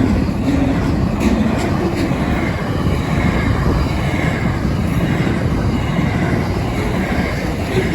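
Long intermodal freight train of platform wagons rolling past: a steady, loud rumble of steel wheels on rail, with scattered sharp clicks from the wheels.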